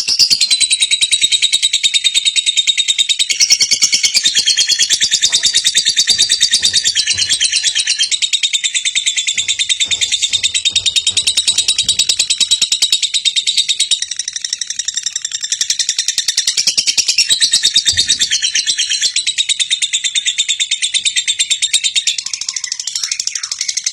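Lovebird singing a long, unbroken, very rapid high-pitched chattering trill (the 'ngekek' song), its pitch stepping up and down now and then. This is the kind of song played as a lure to set young lovebirds singing.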